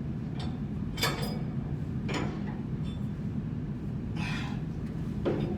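Steady low machinery hum with a few sharp metallic clinks and knocks of tools and parts, roughly once a second, and a longer scraping noise about four seconds in.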